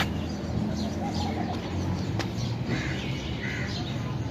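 Birds calling in short, scattered calls: a few brief notes about half a second in, and two short higher calls around three seconds in. A low steady hum of ambient noise runs underneath.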